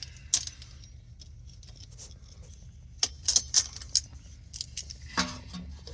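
Scattered metallic clicks and clinks of an adjustable oil filter wrench being set and clamped onto a tight oil filter, with a cluster of clicks a little after halfway. A low steady hum lies underneath.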